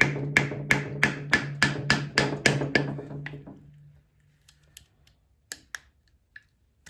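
Hammer blows on the Volkswagen Beetle engine at its rear main seal, a steady run of about three sharp strikes a second with a low metallic ring under them. The blows stop about three seconds in, the ring fades, and a few light knocks follow.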